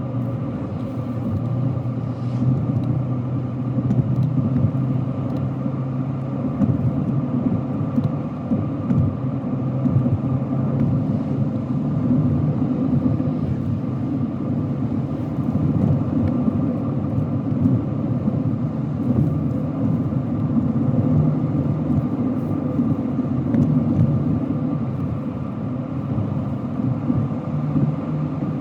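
Car being driven, with steady engine and road noise as a low, even rumble and a faint steady hum above it.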